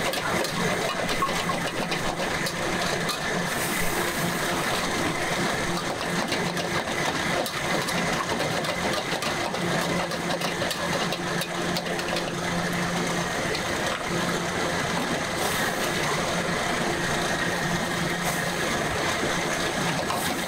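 Stir-fried instant noodles sizzling and crackling steadily on a street-food stall's cooking surface, over a steady mechanical drone that swells and fades, with crowd chatter underneath.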